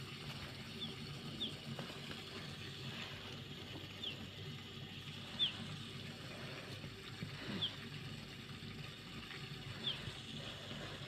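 Short high chirps from a small bird, each falling in pitch, repeated every one to two seconds over a low steady background.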